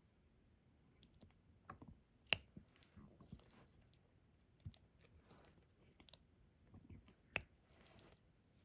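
Faint, scattered clicks and taps of a diamond-painting pen picking up resin drills and pressing them onto the canvas, with soft rustling in between; two sharper clicks stand out, about two seconds in and near the end.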